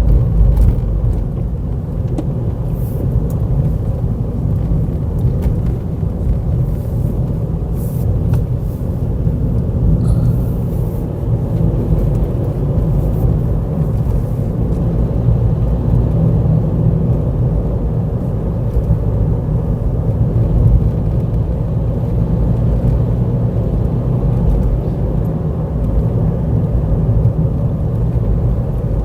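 Wind on the microphone: a steady low rumble, with a few faint ticks now and then.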